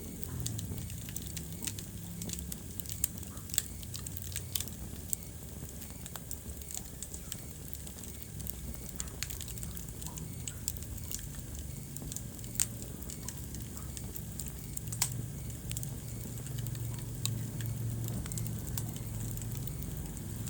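Wood fire in a fireplace crackling steadily, with scattered sharp pops over a low rumble of the flames.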